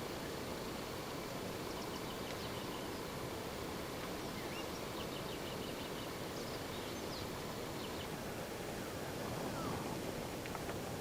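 Steady outdoor hiss with faint bird chirps and short trills scattered through it.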